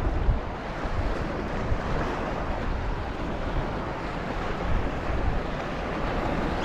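Steady wind buffeting the microphone over open sea water, a continuous rushing noise without distinct knocks or tones.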